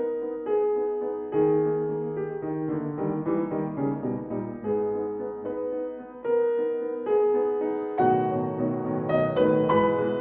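Solo piano playing a classical piece: single notes and chords struck at a measured pace, growing fuller and louder near the end.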